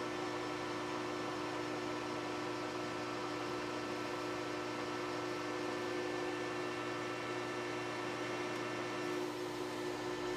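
Metal lathe running at a steady speed: an even machine hum with several fixed tones over a light hiss.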